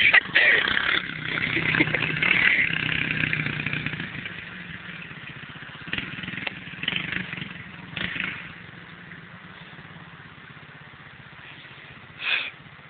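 110cc dirt bike's small single-cylinder engine running, loud for the first three seconds or so, then dropping away to a low steady hum. A few short sharp noises come around the middle, and another near the end.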